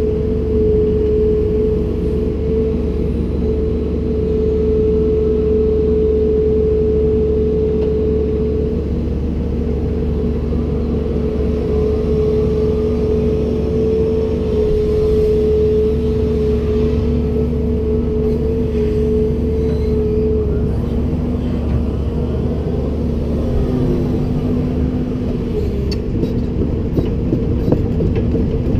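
Komatsu PC290-10 excavator running: a steady engine rumble under a high steady tone and a lower one. Past the middle the higher tone fades, then the lower tone glides down and the rumble eases, with a few light knocks near the end.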